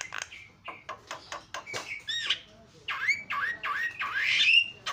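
Javan myna (jalak kebo) singing: a quick run of sharp clicking notes, then several short hooked whistles that bend in pitch, ending in a louder harsh, rasping note.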